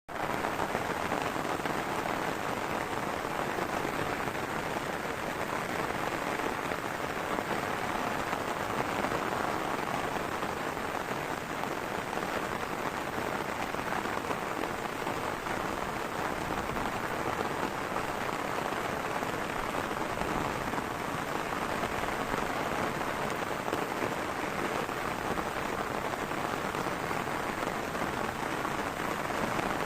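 Heavy rain falling steadily, a dense, even patter without let-up.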